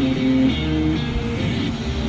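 Guitar music playing on a radio.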